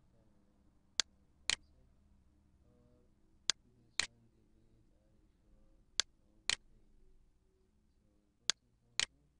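Computer mouse clicks: four pairs of sharp clicks, the two in each pair half a second apart, the pairs coming about every two and a half seconds.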